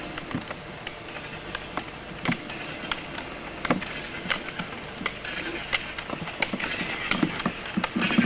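Off-road roller skis rolling on gravel, a steady crunching rustle that grows louder, with irregular sharp clicks and knocks of ski-pole tips striking the ground.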